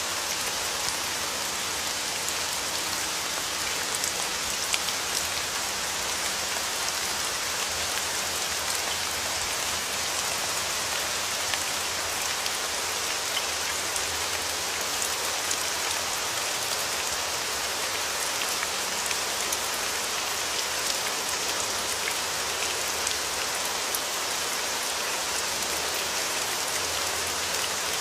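Steady rain falling, an even hiss with many small sharp drop ticks on surfaces.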